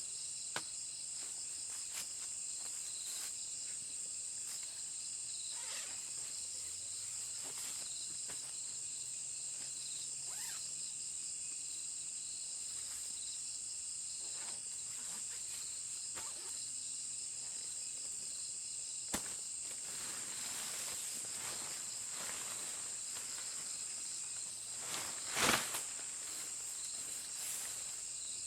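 A steady, high-pitched insect chorus, with a few faint clicks and one brief, louder rustle about 25 seconds in.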